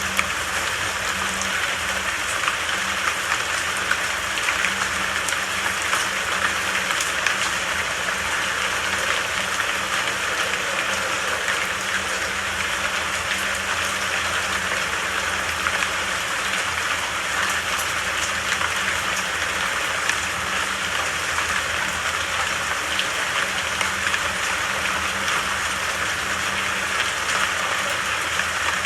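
Rain falling steadily, an even hiss of patter with scattered individual drop hits; no thunder.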